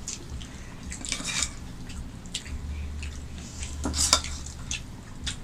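Plates and utensils clinking and scraping as food is served and eaten, in scattered short knocks and scrapes.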